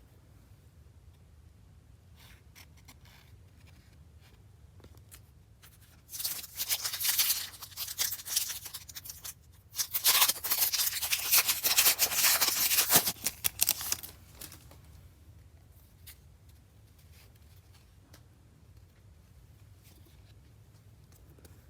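Trading card pack wrapper crinkling and rustling as it is handled and opened. It comes in two stretches, a shorter one and then a louder, longer one.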